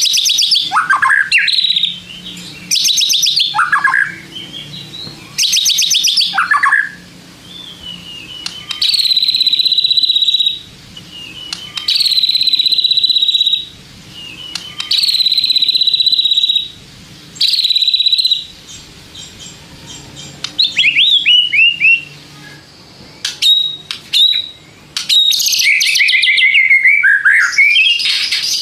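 White-rumped shama (murai batu) singing loud, separate phrases. It opens with rapid trills ending in falling sweeps, then gives four long buzzy held notes, and from about two-thirds of the way in a varied run of quick whistles and chips.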